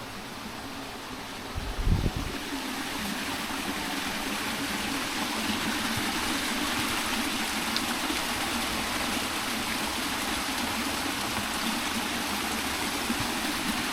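Running water of a stream, a steady rushing flow, with a single low thump about two seconds in.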